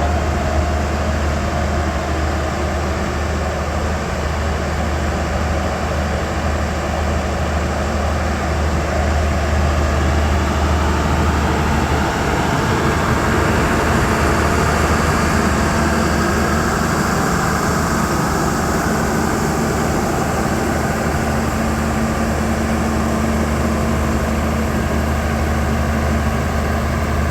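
Diesel train pulling away, with a steady low engine drone and a second steady tone above it. The rolling noise swells from about halfway through.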